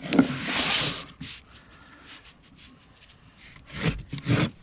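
A short rasping scrape lasting about a second, then a few light knocks near the end, from hand work on fibre cement roofing slates.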